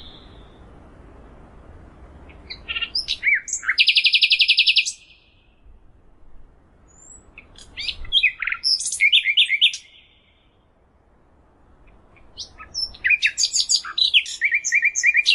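A songbird singing three separate song phrases, each a varied run of high whistled notes. The first phrase ends in a fast, even trill.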